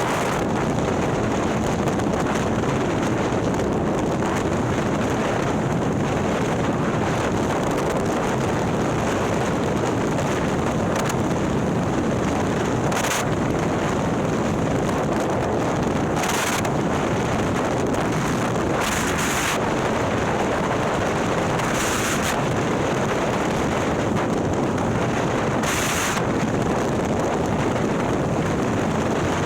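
Harley-Davidson Milwaukee-Eight V-twin, bored out to 130ci and breathing through a ThunderHeader exhaust, running steadily at road speed, heard onboard under heavy wind noise on the microphone. Brief bursts of high hiss come through a few times.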